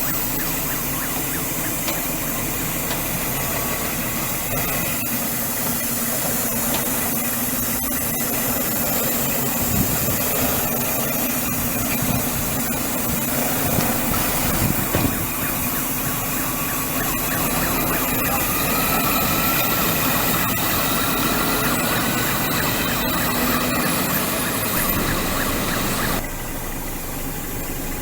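Scania 124L 420 truck's 11.7-litre diesel engine running steadily at idle, with a few light knocks. In the second half a faint thin tone slowly rises in pitch, and the overall level drops abruptly about two seconds before the end.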